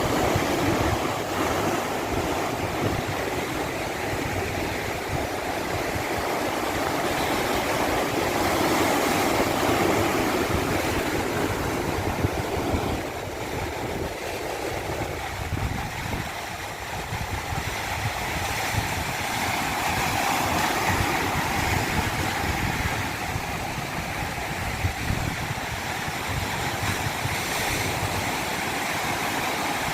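Rushing water running steadily, swelling and easing slowly every several seconds.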